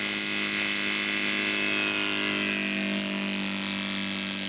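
Engine of a one-third-scale Nieuport 17 radio-controlled model aircraft running at a steady pitch, getting slightly quieter near the end.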